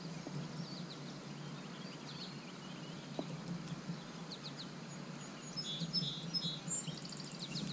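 Small birds chirping in a few short series of high notes over a faint, steady outdoor hiss.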